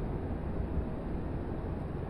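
Distant electric train pulling out of a station, heard as a steady low rumble.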